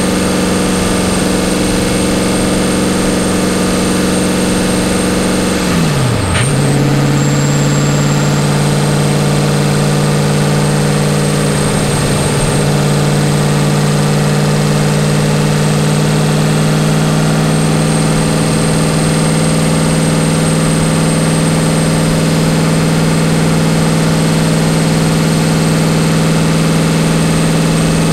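Nissan 300ZX (Z31) engine running steadily while driving, with an upshift about six seconds in: the revs fall sharply, then settle at a steady lower pitch. Road and wind noise run underneath.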